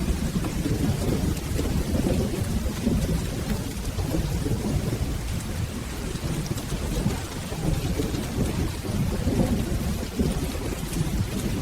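Steady rain with a continuous low rumble of rolling thunder.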